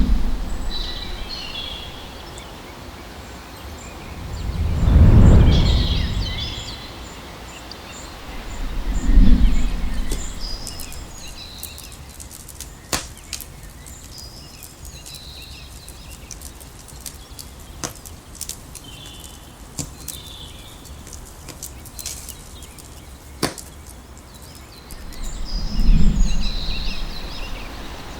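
Outdoor nature ambience with birds chirping. Three loud low whooshes, like gusts of wind, rise and fall about five seconds in, about nine seconds in and near the end. A scattering of sharp clicks falls in the middle.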